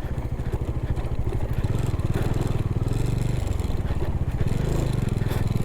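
Cruiser motorcycle's engine running at an even, fast beat while the bike is ridden over a rough, broken unpaved road.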